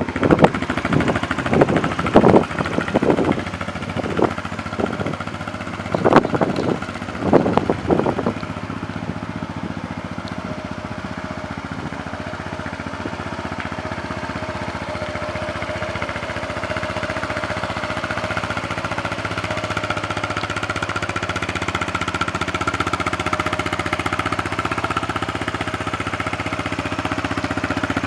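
Yamaha Majesty S 155 scooter's single-cylinder four-stroke engine running, with several short uneven surges in the first eight seconds, then settling into a steady idle.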